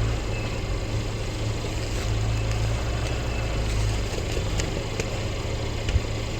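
Snow blower engine running steadily.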